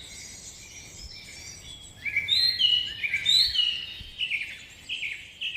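A songbird singing: a quick series of short chirping notes, fainter at first and loud from about two seconds in.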